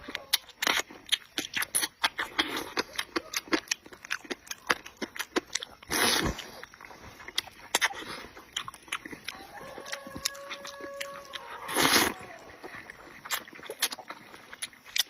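Close-miked eating: wet chewing and lip-smacking with many short clicks, broken by two longer slurps about six and twelve seconds in, as beef tendon and rice noodles are eaten.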